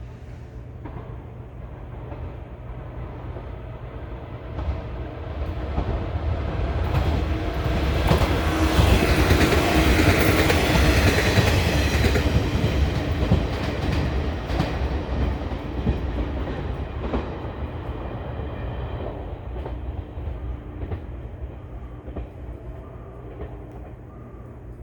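Shinano Railway 115-series electric train passing: it grows louder to a peak about a third of the way in, then fades away, with the clickety-clack of its wheels over the rail joints.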